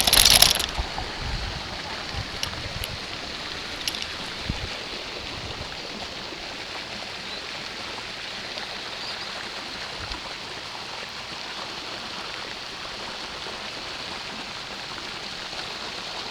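Steady rushing of a small waterfall pouring into a pond. A loud clatter comes right at the start, followed by a few separate clicks and knocks in the first few seconds.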